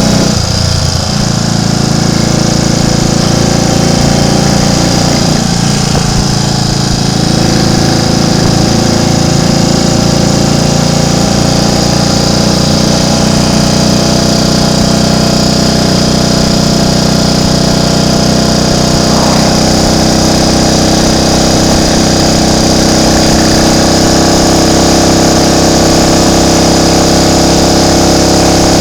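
Triumph Tiger Cub's single-cylinder four-stroke engine running under way, its pitch dipping briefly about a second in and then holding steady.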